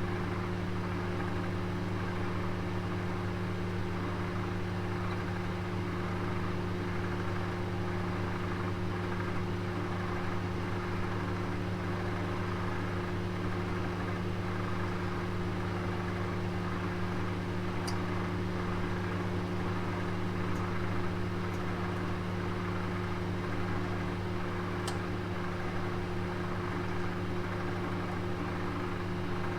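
Oven running with a roast inside: a steady low hum over an even airy rush, as from its fan. A couple of faint, sharp ticks come through a little past halfway and again later on.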